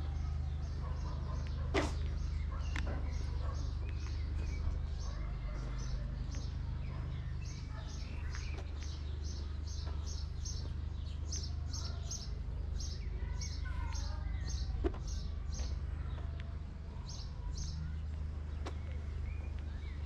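A bird repeating a short high chirp, about two to three times a second, over a steady low rumble, with two sharp clicks, one early and one near the end.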